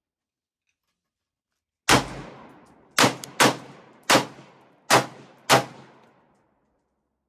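Six gunshots fired in irregular succession over about four seconds, starting about two seconds in, each sharp crack followed by an echo that dies away.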